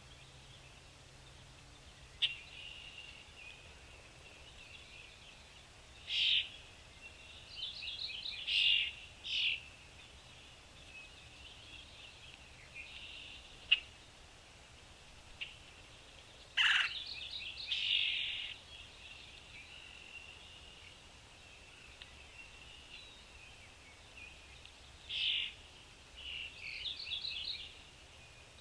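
Small birds chirping in short calls and quick trilled bursts, in several separate bouts, over a faint, constant high chatter. A few sharp clicks stand out, the loudest about halfway through.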